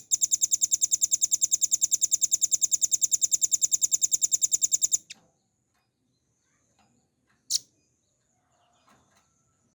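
Velvet-fronted nuthatch singing a fast, even trill of high notes, about nine a second, for about five seconds. A single sharp call follows a couple of seconds later.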